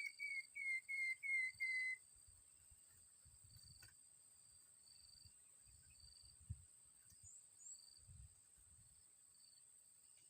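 A small songbird's call: a quick run of about seven clear whistled notes, each falling slightly, stepping down in pitch and stopping about two seconds in. Behind it, a faint high chirp repeats about twice a second over a steady high insect drone.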